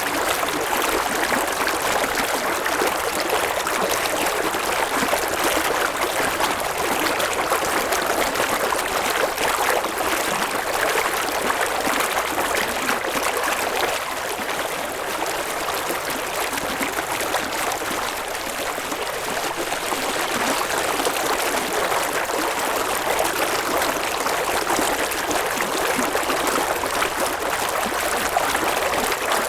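River water flowing over stones: a steady rushing and babbling, even throughout.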